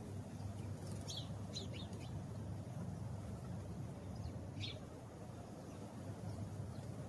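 House sparrow chirping: a quick cluster of short, high chirps about a second in, then a single chirp near the middle. A steady low rumble runs underneath.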